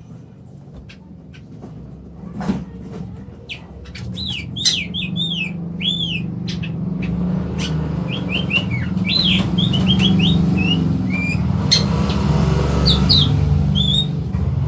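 Oriental magpie-robin (kacer) calling in short arched whistled notes and quick chirps, starting about four seconds in, over a steady low hum that grows louder.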